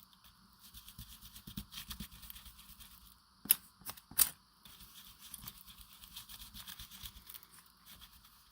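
Quick, repeated scrubbing strokes of a stencil brush or sponge on paper, working colour through a stencil. There are two sharp clicks about halfway through.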